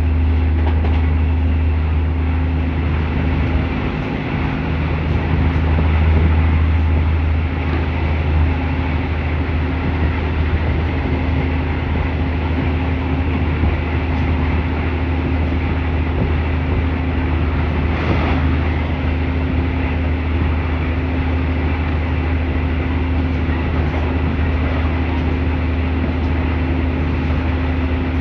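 Train running noise heard from inside a passenger coach on the move: a steady low rumble and hum of wheels on rail, with one brief sharp knock about two-thirds of the way through.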